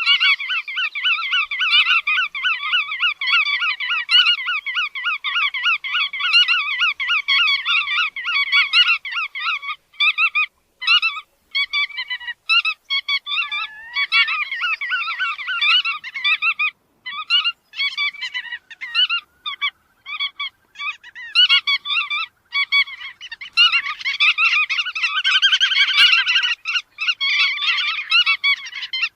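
Calls of the bird known in Vietnamese as chắt đuôi vằn: a fast, steady string of repeated notes, several a second. After about ten seconds it breaks into short bouts with brief gaps, and it grows denser with overlapping notes near the end.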